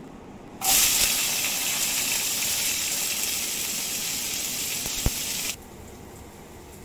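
Chopped onions and tomatoes hitting hot oil in a nonstick kadai: a loud sizzle starts suddenly about half a second in, holds for about five seconds and cuts off abruptly. One sharp tap sounds just before it stops.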